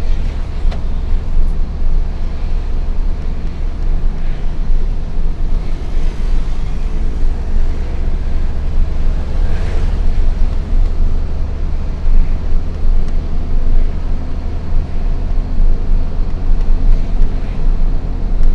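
Hino FL 260 JT truck's six-cylinder diesel engine running under a heavy load, a steady low drone heard from inside the cab.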